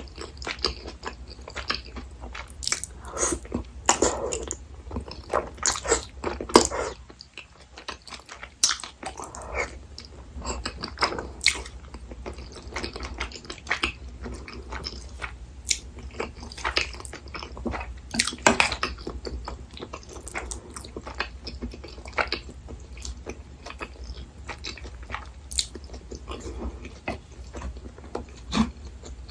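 A person chewing and biting food close to the microphone, with irregular wet smacks and sharp clicky mouth sounds and a brief lull about a third of the way in.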